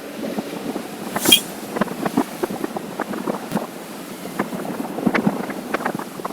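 Wind noise on the microphone of a moving motorcycle, with many irregular knocks and crackles; the sharpest comes just over a second in.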